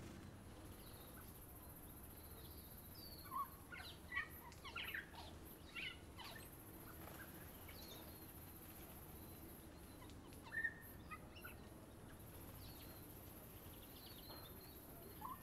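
Honeyeaters (tui and bellbird) calling: scattered short notes and chirps, a cluster of them from about three to six seconds in and a few more about ten seconds in, over a faint steady background.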